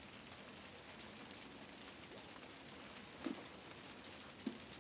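Faint, steady rain falling, with two footsteps near the end.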